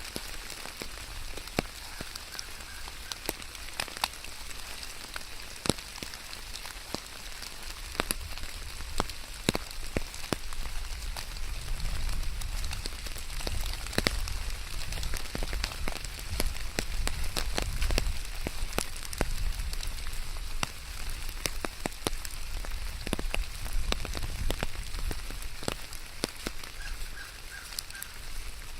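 Steady rain falling, with many sharp drops hitting close by among the even hiss. A low rumble swells up through the middle and fades again.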